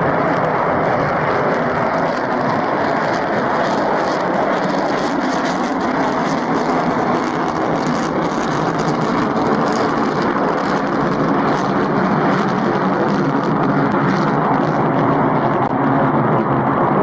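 Aircraft engine noise: a loud, steady rush that does not change.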